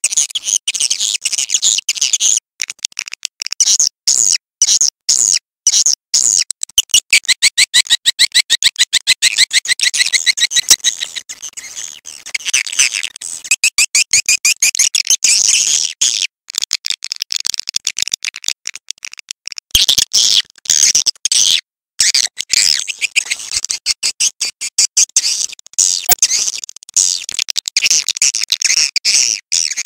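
Recorded swiftlet calls: quick trains of high, rapid twittering chirps and clicks, broken by brief pauses. It is the kind of swiftlet call track played to lure swiftlets into a nesting house.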